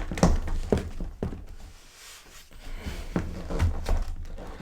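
Scattered knocks and taps of a large hard-plastic collectible figure being handled and repositioned, with a quieter stretch near the middle.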